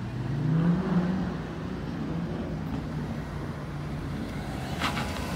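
Car engine revving up about half a second into the clip, then running at a steady pitch as the car moves off. A single sharp click comes near the end.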